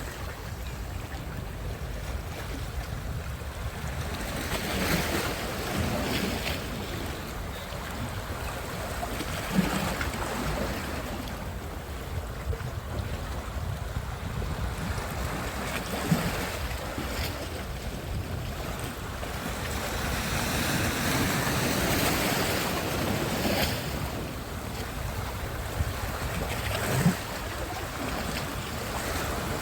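Sea waves washing onto a beach, the surf swelling and ebbing every few seconds, with wind rumbling on the microphone and a few short bumps.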